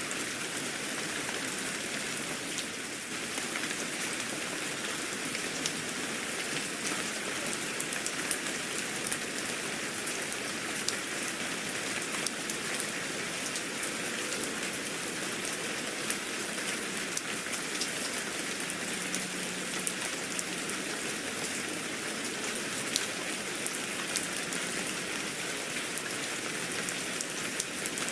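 Steady rain falling on a surface, with a constant hiss and scattered distinct drops ticking through it.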